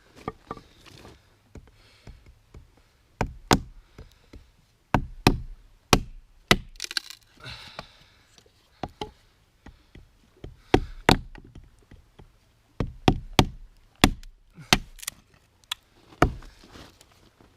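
Axe chopping firewood: a series of sharp wooden strikes at an uneven pace, often two in quick succession.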